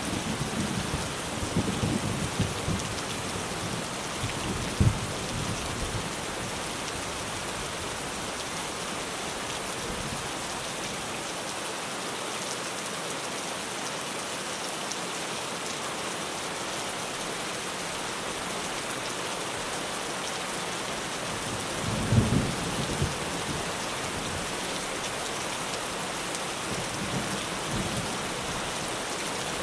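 Steady rain falling on a tin roof, with short low rumbles of thunder in the first few seconds and again about two-thirds of the way through.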